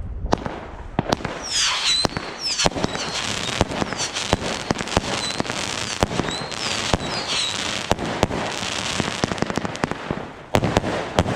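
New Year's Eve fireworks: a dense, irregular run of firecracker bangs near and far over a steady crackle, with short high whistles here and there. A cluster of louder bangs comes near the end.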